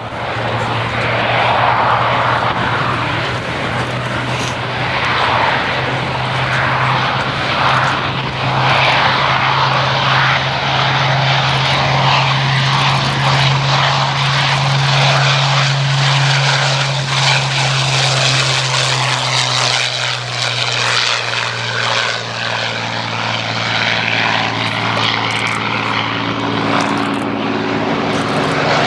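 Piston engines of propeller-driven Second World War fighters (Spitfires and Hurricanes) flying past with a loud, steady drone. About twenty seconds in, the engine note changes and further engine tones join it.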